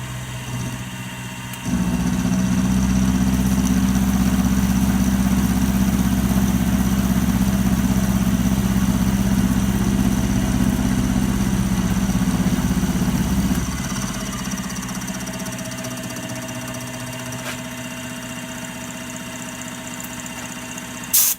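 Milling machine running with a steady low hum that grows louder about two seconds in and drops back about fourteen seconds in. A few sharp clicks come near the end.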